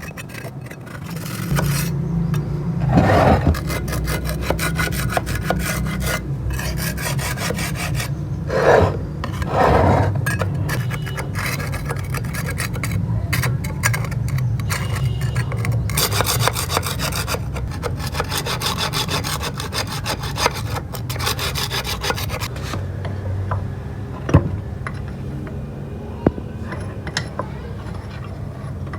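Continuous rough scraping and rasping on rusty steel, as rust is abraded off a bench vise part. It swells louder and harsher about three seconds in and again around nine to ten seconds, and gets lighter in the last few seconds.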